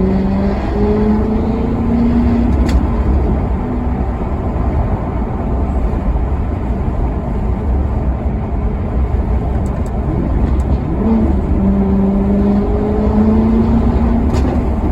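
Maserati Quattroporte Sport GT V8 engine accelerating twice. The revs climb for about three seconds at the start and again from about eleven seconds in, with a steady low rumble in between.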